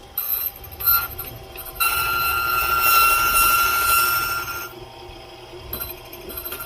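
Key-cutting machine running. After a few short bursts, it cuts a key blank for about three seconds with a steady, high-pitched metallic whine and hiss, then winds down.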